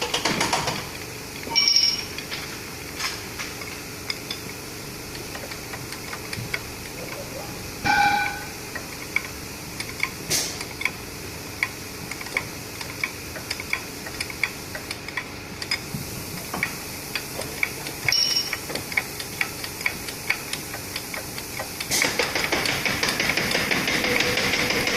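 Metal tools knocking and clinking against steel parts during work on a truck's torque rod and bushings, with a few short ringing clanks. Near the end a steady hiss starts up.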